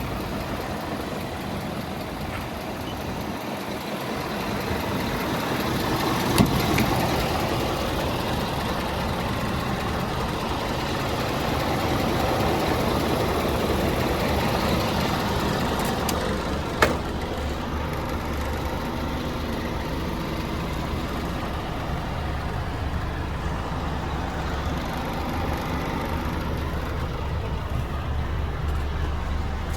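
Scania P320 truck's diesel engine running steadily at idle, swelling a little in level twice, with two sharp clicks or knocks, one about six seconds in and one about seventeen seconds in.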